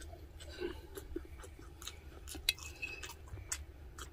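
Chewing of braised pork sparerib meat, with scattered small wet mouth clicks and smacks and one sharper click about two and a half seconds in.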